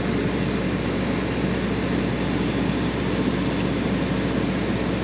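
Steady drone of jet aircraft running at the airport, an even rushing noise with a low steady hum underneath.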